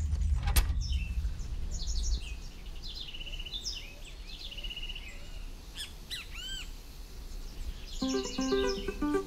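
Birds chirping and trilling, with repeated short calls and a few rising-and-falling whistles, over a low rumble that dies away in the first two seconds. Plucked-string music comes in near the end.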